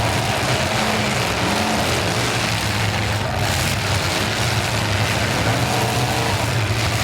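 Demolition derby cars' engines running and revving together under a steady wash of noise.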